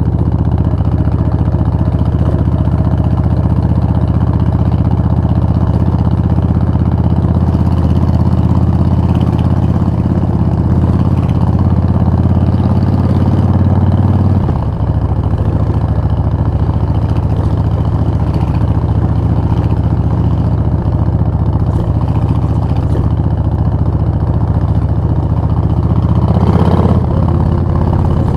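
Suzuki VS1400 Intruder's V-twin engine running with a steady low exhaust note. About halfway through the note steps down abruptly, and near the end it briefly swells.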